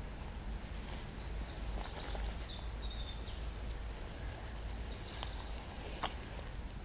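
A small songbird singing a run of short, varied high chirps from about a second in until near the end, over a steady low rumble, with a few soft clicks.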